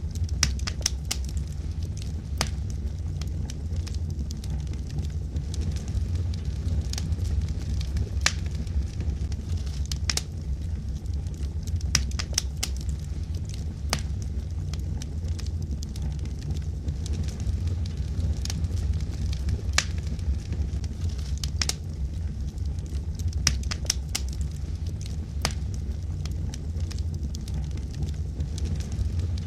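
Wood logs burning, crackling with frequent irregular sharp pops over a steady low rumble of the flames.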